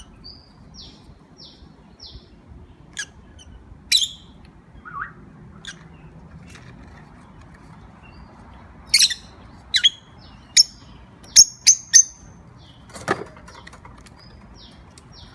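Pet birds chirping: soft short falling chirps repeat throughout, broken by loud sharp calls, with a quick run of five or six of them starting about nine seconds in.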